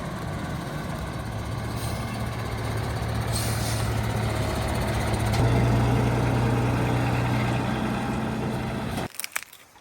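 A steady mechanical drone: a low hum under a rushing noise that swells slightly mid-way and cuts off abruptly about nine seconds in, leaving a few faint clicks.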